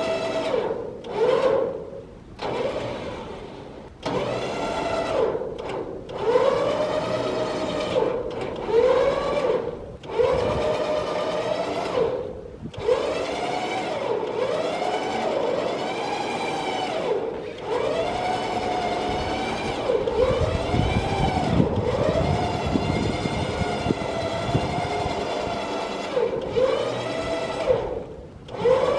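Electric trailer winch motor whining as it pulls a car up onto a trailer, run in short bursts so its pitch rises and falls with each start and stop, then running longer stretches near the end.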